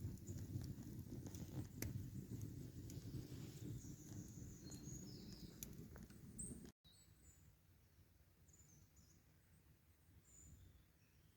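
Campfire crackling, with a low rumble and scattered sharp pops, while small birds chirp. About seven seconds in the fire sound cuts off and only faint birdsong remains.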